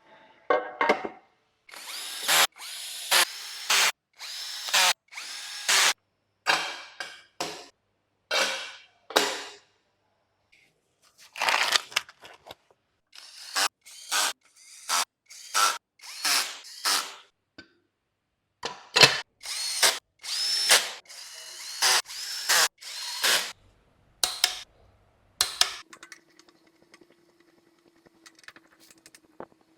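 Power drill-driver running in about thirty short bursts, each under a second, with a whine that rises as it spins up and two short pauses between runs: bolts being run in during V8 engine assembly.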